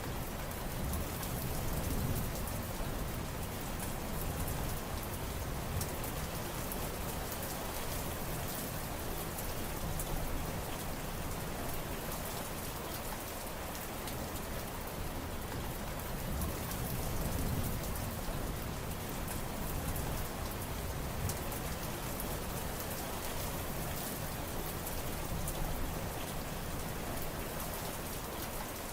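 Steady rain falling and pattering on surfaces, with a low rumble that swells and fades every few seconds.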